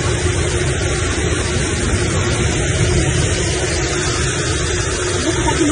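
Loud, steady rushing noise of a flash flood and heavy rain in a city street.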